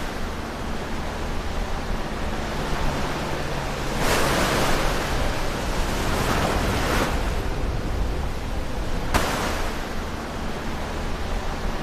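Ocean waves breaking close to the shore: a steady wash of surf, with a wave crashing about four seconds in and washing for a few seconds, and another breaking near the end.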